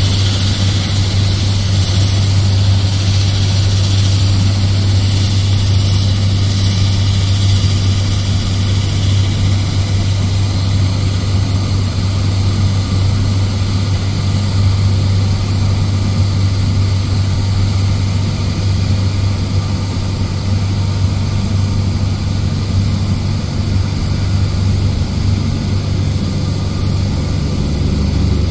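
Loram SBC-20 rail ballast cleaner running steadily as it works the track, a constant deep engine hum with a rush of machinery noise over it.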